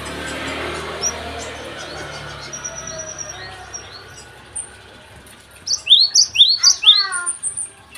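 Gelatik songbird calling: scattered short chirps, then about two-thirds of the way through a loud rapid run of about five falling chirps. A steady rushing noise underneath fades out about halfway through.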